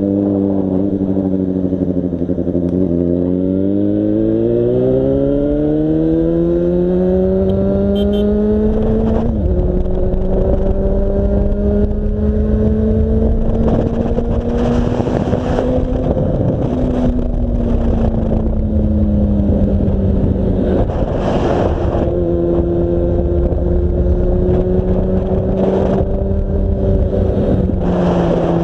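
Yamaha FZ6 inline-four motorcycle engine heard while riding: the engine note climbs steadily under hard acceleration for several seconds, drops at an upshift, then holds at cruising revs, easing off and picking up again a couple of times.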